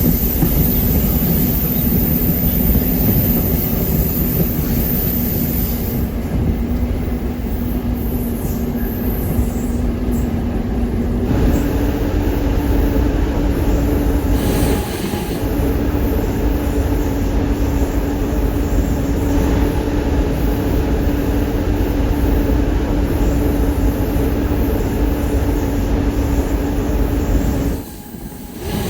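Talgo passenger train running along the track: a steady rolling rumble with a constant hum that steps up in pitch about a third of the way through, and the sound dips briefly near the end.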